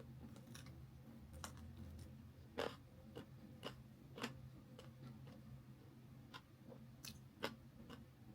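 Close-miked chewing and biting of chicken leg pieces: irregular small clicks and crunches, with a few louder bites.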